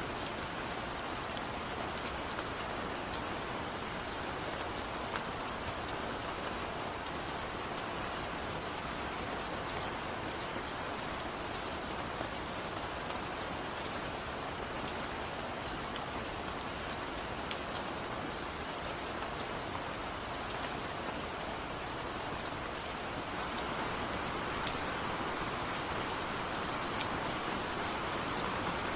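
Steady rain falling, a dense hiss with many separate drops ticking close by; it grows a little heavier about three-quarters of the way through.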